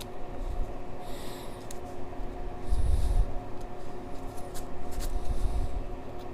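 Razor blade scraping old gasket material off a metal flange in a few short strokes, with low knocks from handling the part and a steady hum behind.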